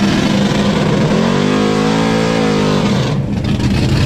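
Big V8 engine of a Mercury Cougar drag car on slicks, running loud and lumpy. About a second in it revs up and then back down.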